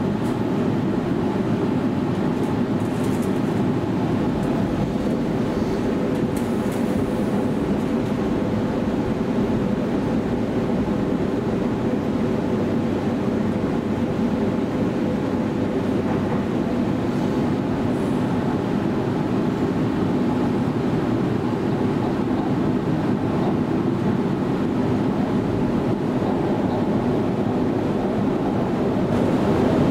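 Steady cabin noise inside a Sydney Waratah A-set double-deck electric train: a continuous rumble with a faint, even hum running through it.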